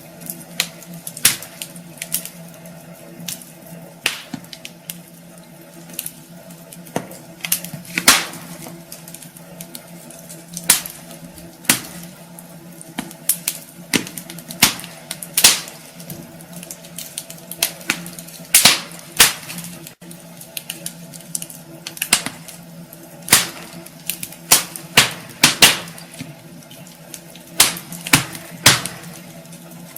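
Wood fire crackling in a fireplace: irregular sharp pops and snaps, sometimes several close together, over a steady low hum.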